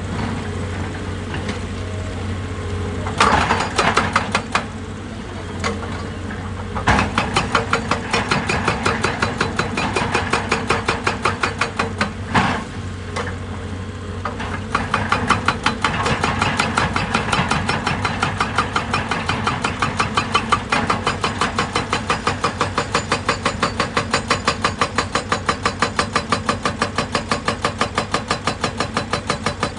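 A machine engine running steadily with a fast, even chugging pulse. A few louder knocks come in the first half, and the pulse grows more pronounced about halfway through.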